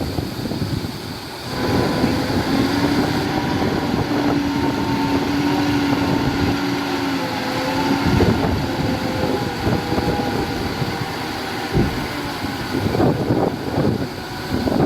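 Heavy diesel earthmoving machinery running under load: a steady engine drone with a held tone for several seconds in the first half, over rough knocking and clatter.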